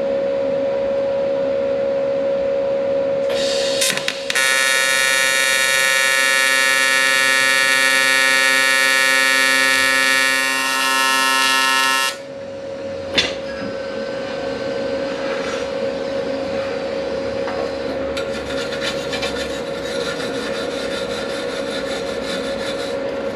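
AC TIG welding arc on aluminum tube and plate, a steady buzz for about eight seconds as a weld is laid in, then a sharp click, then a second, fainter stretch of arc near the end. A steady hum runs underneath throughout.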